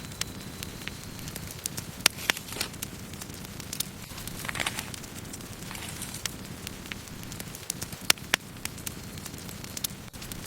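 Wood campfire burning: a steady low rush of flames with frequent sharp crackles and pops from the burning wood, the loudest pops about two seconds in and near the end. There is a brief hiss near the middle.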